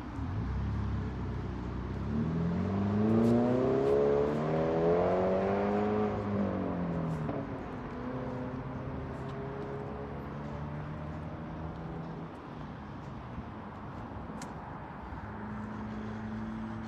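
A car engine accelerating, its pitch rising over a couple of seconds, holding, then dropping and fading out about seven seconds in; a fainter steady engine hum stays under it.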